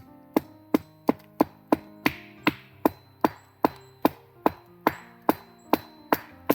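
Machete chopping wood in quick, evenly spaced strikes, about eighteen sharp blows at between two and three a second. Background music plays underneath.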